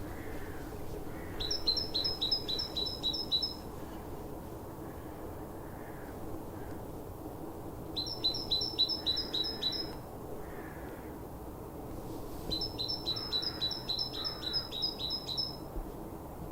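A small songbird singing: three phrases of quick, evenly repeated high notes, each lasting two to three seconds.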